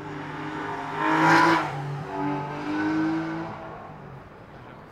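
Aston Martin Vantage roadster's engine under hard acceleration as the car passes, loudest a little over a second in, then two quick breaks in the note, like upshifts, as it pulls away and fades.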